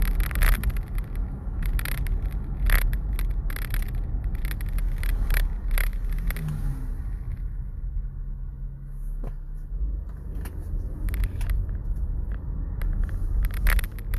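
A car's engine and road rumble heard from inside the cabin, with scattered short clicks and scrapes; the engine note shifts about six seconds in, then steadies.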